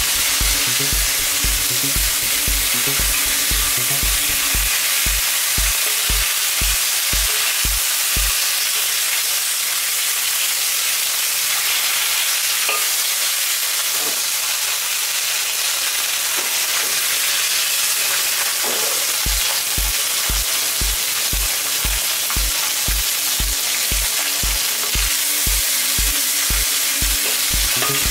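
Pork chops sizzling as they fry in hot oil in a wok, with a metal spatula scraping and stirring them now and then. A steady bass beat of background music drops out for about ten seconds in the middle.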